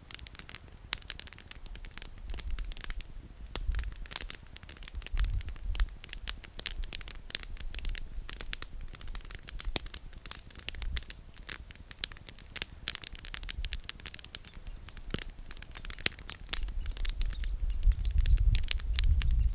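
Wood campfire crackling, with many irregular sharp pops and snaps from the burning firewood. A low rumble comes and goes underneath and grows louder near the end.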